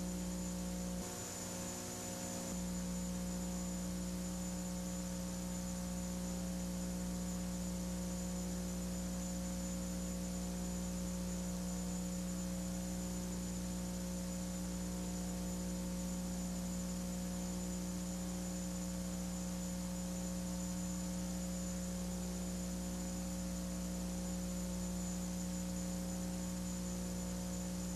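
Steady electrical mains hum, with a faint high whine above it and a hiss underneath. The low end drops out briefly about a second in.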